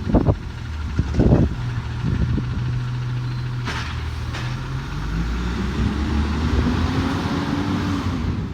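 Garbage truck's diesel engine running, its pitch climbing slowly through the second half as it speeds up. Two sharp knocks come about halfway through.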